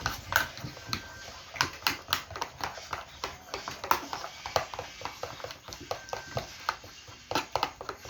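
Irregular rapid clicking and tapping of a utensil against a mixing bowl, as when pancake batter is stirred.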